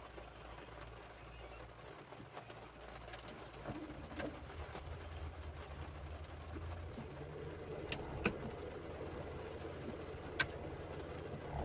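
A vehicle engine's low rumble, which builds about four seconds in and holds steady over a constant background hiss, with a few sharp clicks.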